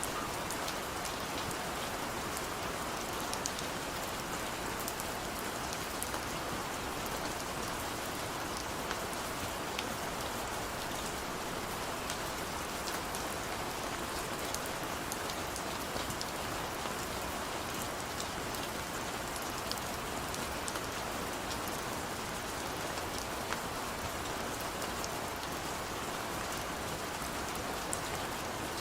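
Heavy rain falling steadily, a dense even hiss with many small drop patters on a surface.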